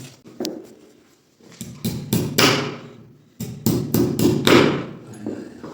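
Hammering: two quick runs of about four or five knocks each, with a single knock just before them.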